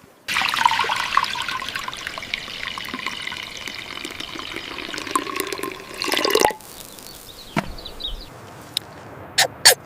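Water running for about six seconds, starting and stopping suddenly. A few sharp clicks follow near the end.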